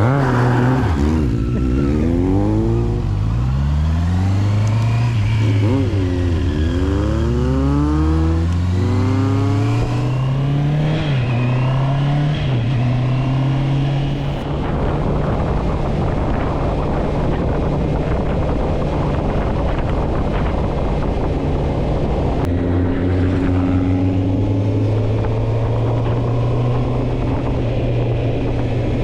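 Motorcycle engine heard from the bike while riding. It accelerates through the gears for the first ten seconds or so, its pitch climbing and then dropping at each shift, then runs at a steady cruise with a rushing noise of wind.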